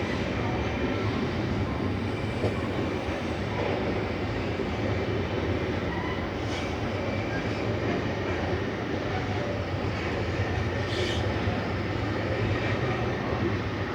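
Freight train of flatcars rolling past with a steady rumble of wheels on rails, and a brief high squeal late on.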